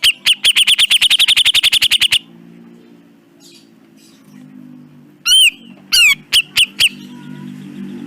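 Cucak jenggot (brown-cheeked bulbul) calling: a loud, harsh rapid rattle of about a dozen notes a second for about two seconds, then, after a pause, a few loud arched single call notes and short sharp clicks.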